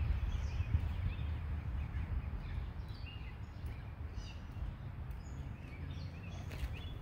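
Scattered short bird chirps and calls over a steady low outdoor rumble.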